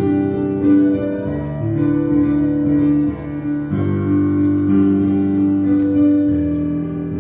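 Instrumental music on piano or keyboard: slow sustained chords that change every few seconds.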